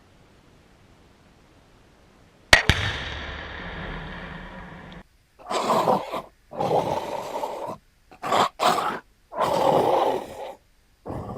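A sharp crack about two and a half seconds in, with a fading rumble after it. Then a string of loud growl and roar sound effects follows, each one breaking off abruptly.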